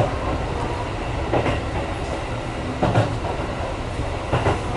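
Electric train running, heard from inside the carriage: a steady low rumble of wheels on rail, with a clack from the rail joints about every one and a half seconds.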